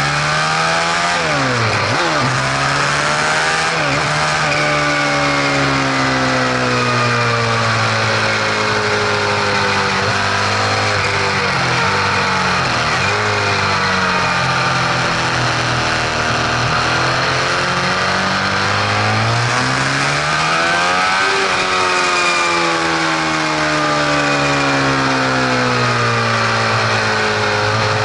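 A vehicle's engine running, its pitch falling and rising again and again as engine speed changes, with the deepest dips about two, twelve and twenty-one seconds in. It carries a mechanical noise that the owner can't place and takes for abnormal.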